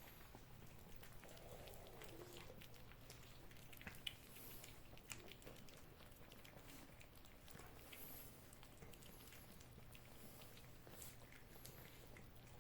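Cats licking and chewing a soft lickable cat treat: faint, scattered wet clicks and smacks over a quiet background.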